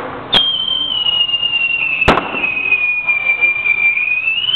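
Fireworks going off close by: two sharp bangs about a second and a half apart, and a continuous high whistle from a whistling firework that starts with the first bang, sags slightly in pitch and rises again near the end.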